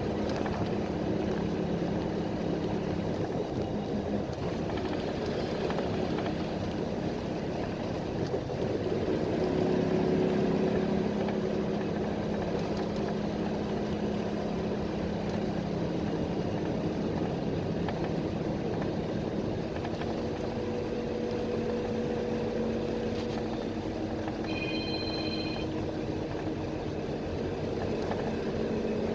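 PAZ Vector Next bus heard from inside the cabin: the diesel engine and road noise run steadily, with the engine note shifting in pitch a few times as the bus changes speed. A short high electronic beep sounds once near the end.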